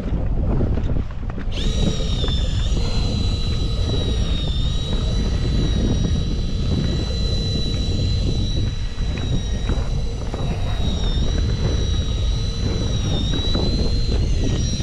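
A 2 hp Tohatsu outboard motor on a small inflatable boat comes in about a second and a half in and then runs steadily, with a high whine. Its pitch dips briefly now and then as the engine speed wavers. Heavy wind rumble lies underneath.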